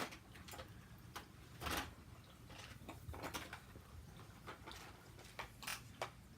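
Irregular light clicks, knocks and short scrapes of toy train track pieces being handled and fitted together, with a longer scrape a little under two seconds in.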